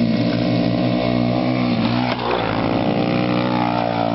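Pit bike engine running at fairly steady revs, its pitch dipping and shifting a little past the middle before settling again.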